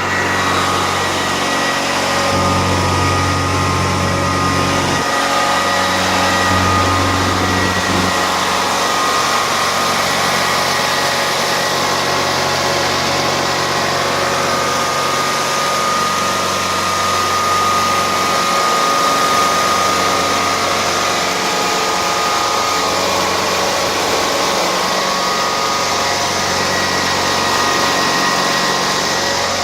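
Prochem Performer truck-mount carpet cleaning machine running steadily, its 24 hp Onan engine holding a constant speed with a steady whine over the engine note.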